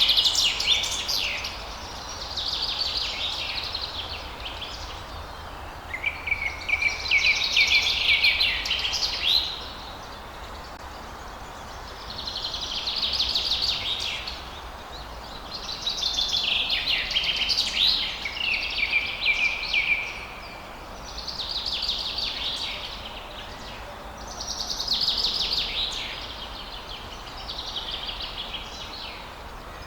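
Songbirds singing: phrases of rapid, high twittering notes, each lasting two to four seconds and returning every few seconds, over a steady low background hiss.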